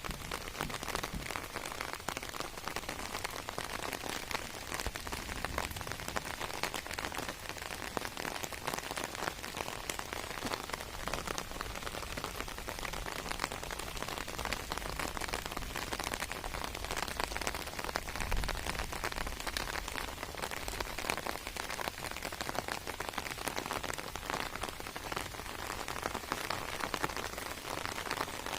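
Steady rain falling, with many separate drop hits.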